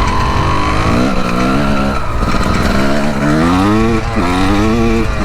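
Two-stroke 250 dirt bike engine accelerating hard, its pitch climbing and then dropping at each upshift, three times in a row.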